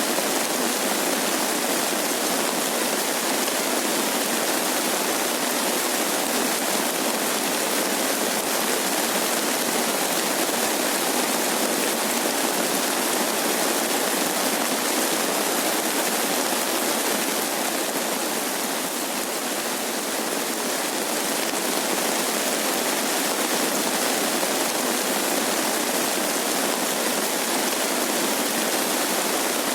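Steady rain falling, a constant dense hiss with no single drops or thunder standing out; it eases slightly about two-thirds of the way through.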